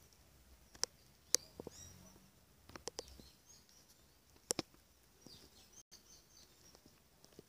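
Young puppies squeaking faintly in short high chirps, with a few scattered sharp clicks and taps.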